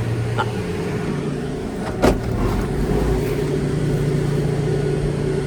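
Gondola terminal machinery running with a steady low hum as the cabin comes into the station, with one sharp clunk about two seconds in.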